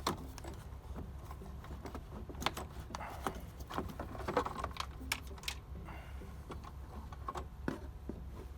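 Irregular clicks and rustling as the old engine air filter is handled and pulled out of its plastic housing, over a steady low hum.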